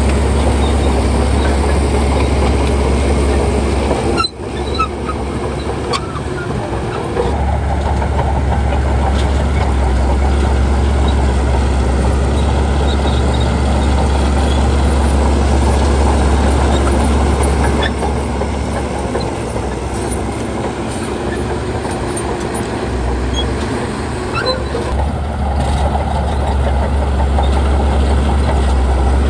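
Bulldozer's diesel engine running steadily under load, with a strong low drone. It dips briefly about four seconds in, then picks back up.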